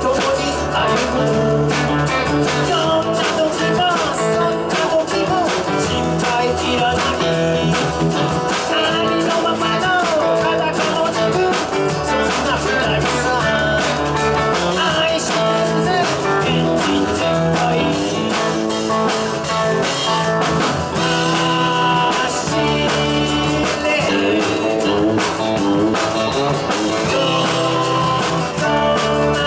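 Rock and roll band playing: guitar leading over bass and drums, with a bluesy feel.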